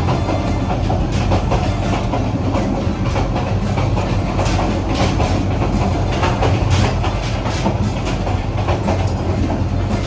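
Subarna Express passenger train running at speed: a steady low rumble with repeated clatter of the wheels over the rails.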